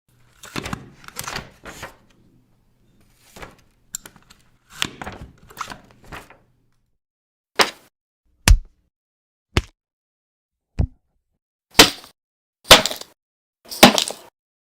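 A string of short comedic hit sound effects, whacks, thunks and cracks, played one after another with brief silences between, about a dozen in all. Near the end they come roughly once a second.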